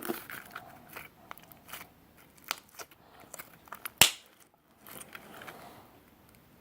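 Homemade slime being handled and stretched, giving scattered small clicks and crackles, with one sharper click about four seconds in.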